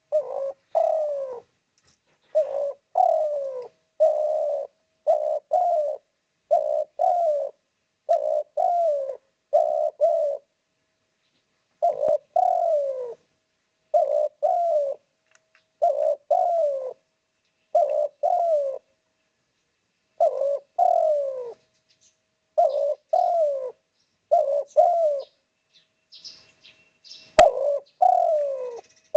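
Spotted dove (derkuku tekukur) cooing over and over: phrases of two or three falling coos follow one another about every second or two, with a few short pauses. A sharp click sounds once near the end.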